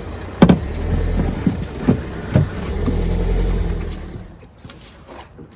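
Sharp plastic clicks and knocks from hands working inside a car door cavity, popping off the plastic clip that holds the bottom of the window glass. A low rumble runs underneath and fades out about four seconds in.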